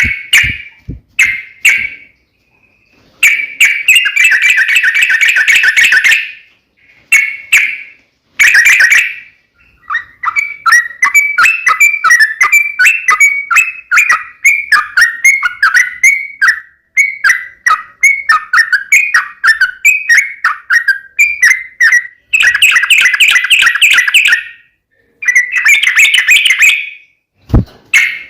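Yellow-vented bulbul (trucukan) calling loudly in bursts of bubbly, chattering phrases. A long run of rapid, quickly repeated notes fills the middle.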